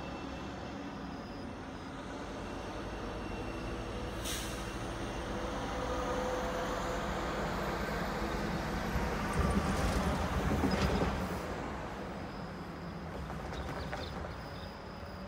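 Train rumbling through the station, building to its loudest about nine to eleven seconds in and then easing off, with a short burst of air hiss about four seconds in.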